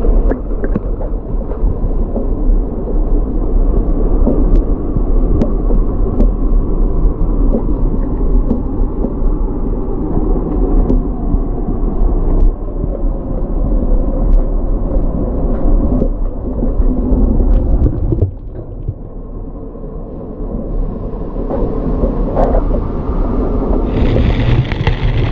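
Wind buffeting a camera microphone: a loud, steady low rumble that drops away sharply about 18 seconds in, then builds up again.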